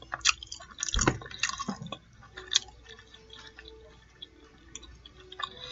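Close-miked wet mouth sounds of chewing and eating: clicks and smacks, thickest in the first two seconds with a dull thump about a second in, then fainter and sparser.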